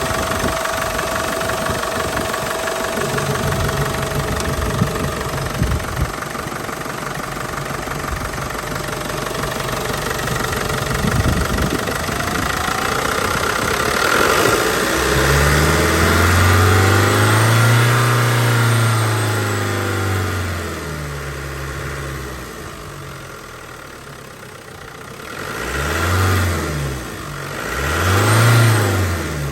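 Land Rover engine idling, then revved in one long rise and fall about halfway through, followed by two short blips of the throttle near the end.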